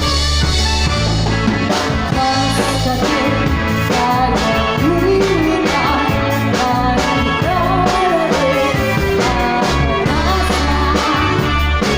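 Live band playing amplified rock-style music, with drum kit, bass and electric guitar under a singing voice.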